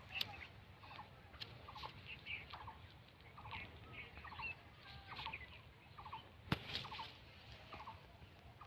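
Faint bird calls: short, rapid trilled notes repeated over and over, with a few higher chirps. A couple of sharp clicks, the loudest about six and a half seconds in.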